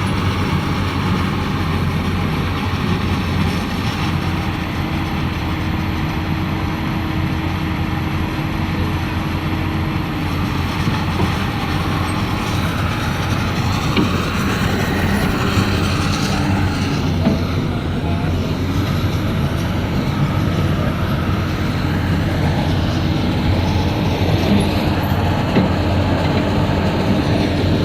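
Komatsu PC200 excavator's diesel engine running steadily, with a faint steady whine for several seconds early on.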